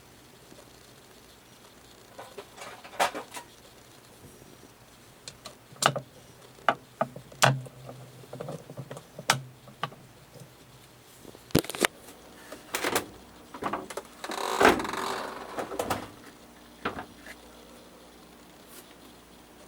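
Scattered clicks and knocks of hard plastic washing-machine parts being handled and fitted, with a short scraping, rustling stretch about fourteen to fifteen seconds in.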